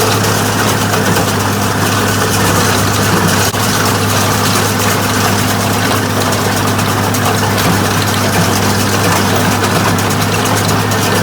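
Farm tractor engine running steadily at a constant speed, a deep even hum.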